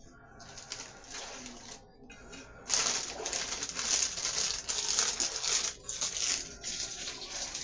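Plastic snack bag crinkling as it is handled. The crinkling is faint at first and gets much louder about three seconds in.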